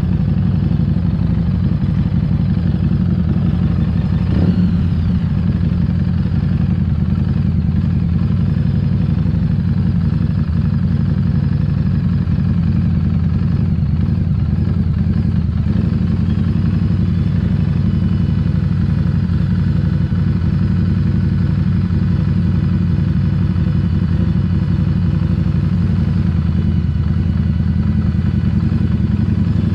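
Harley-Davidson Street 750's V-twin engine running steadily, a constant low engine note with no revving.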